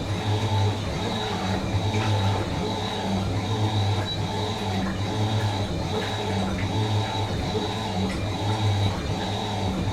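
Fisher & Paykel MW512 washing machine running: a low motor hum that swells and fades roughly once a second, over a steady high whine.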